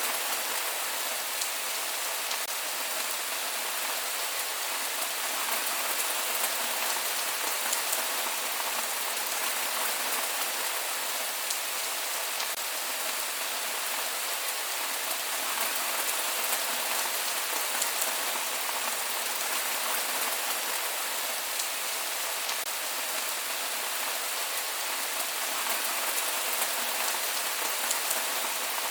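Steady rain falling, a continuous even hiss with faint scattered drop ticks and no thunder.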